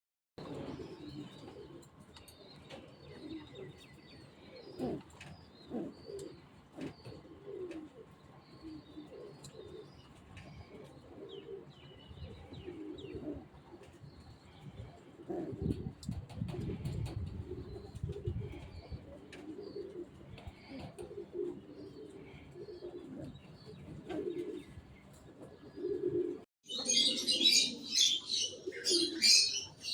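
Fancy pigeons cooing over and over, with faint high chirping of small birds behind them. After a brief break near the end, the high chirping becomes much louder.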